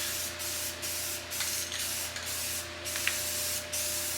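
Red paint being sprayed onto the truck's body panel: a steady hiss broken by short breaks about twice a second.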